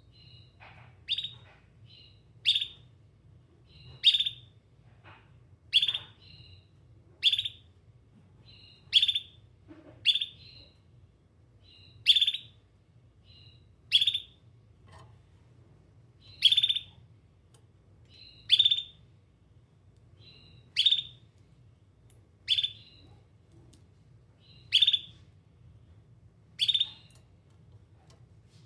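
A domestic canary giving short chirping calls, one every one and a half to two seconds, each loud and separate rather than a continuous song. These are repeated calls of a canary looking for other canaries.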